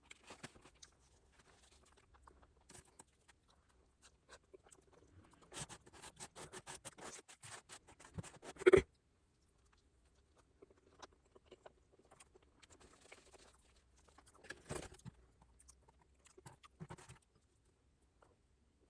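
Close-miked eating: chewing food, with a run of quick crackling crunches about halfway through that ends in one sharp knock, then softer chewing.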